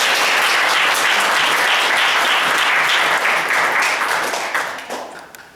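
Audience applauding: many hands clapping in a dense patter that dies away about five seconds in.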